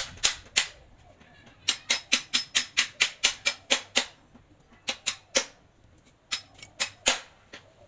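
Sharp clicks or taps in quick runs, about three a second, from hand work on the pallet truck's hydraulic pump, with pauses between the runs and a few single clicks near the end.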